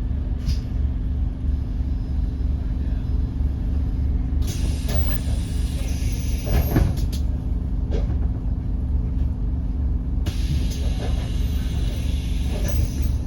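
A 2008 Scania N270UD OmniCity double-decker bus's five-cylinder diesel engine running steadily, heard from inside the bus on the move. Two spells of hissing come in, about four seconds in and again about ten seconds in, with a knock in the middle of the first.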